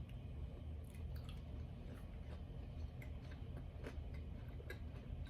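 A man chewing chicken nuggets, heard as faint, scattered small clicks and mouth noises.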